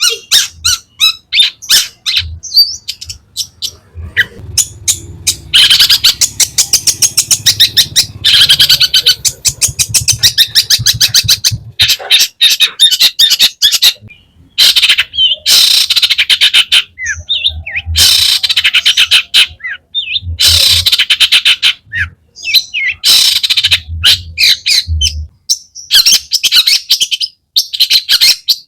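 Long-tailed shrike (cendet) singing loudly in bouts of very rapid, harsh chattering notes, each bout lasting a few seconds with short pauses between. This is a shrike in full, vigorous song, the kind played as lure audio to set other shrikes singing.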